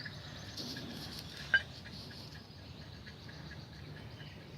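Quiet background noise with one short, sharp click about a second and a half in.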